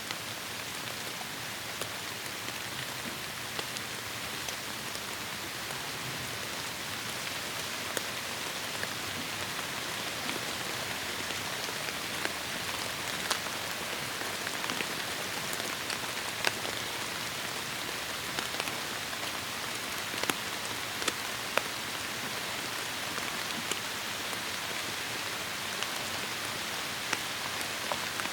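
Heavy rain falling in forest, a steady hiss with scattered sharp drop impacts standing out above it.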